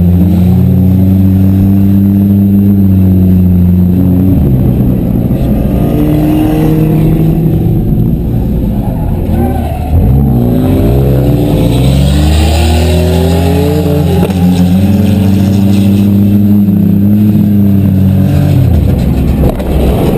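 Several demolition derby cars' engines running loud and revving, their pitches rising and falling over one another.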